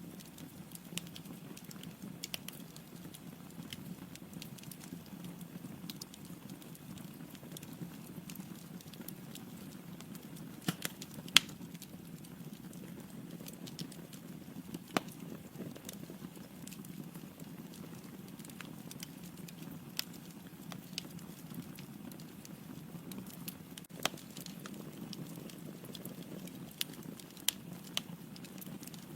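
Wood fire burning in a fireplace, with a steady low rumble of flames and scattered sharp crackles and pops from the logs; the loudest pop comes a little past a third of the way in.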